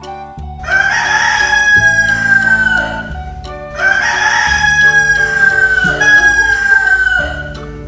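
Rooster crowing twice, each crow a long call that slowly falls in pitch, over background music.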